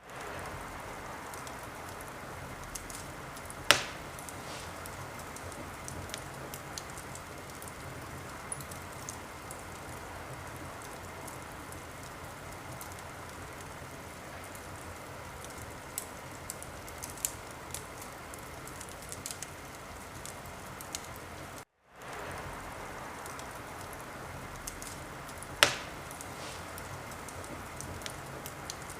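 Wood fire crackling in a fireplace: a steady hiss with scattered small crackles, and two sharp pops, one about four seconds in and one near the end. The sound cuts out for an instant about three-quarters of the way through.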